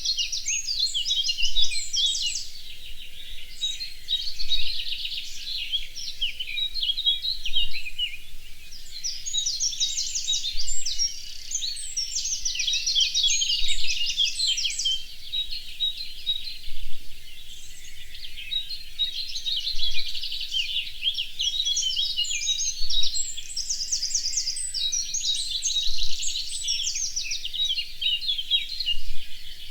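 Songbirds singing in a dense chorus of high, fast trills and chirps, with a louder phrase about every three seconds.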